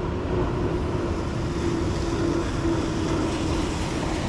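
Heavy rain pouring on a city street: a steady hiss of falling rain and splashing water, with wind rumbling on the microphone and a faint steady hum underneath.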